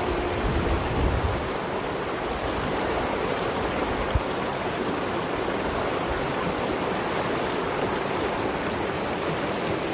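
Mountain stream rushing over rocks, a steady hiss of flowing water, with a short low rumble near the start and a single knock about four seconds in.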